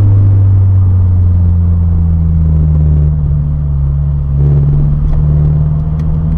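A car's steady low engine and road rumble, heard from inside the cabin while driving slowly.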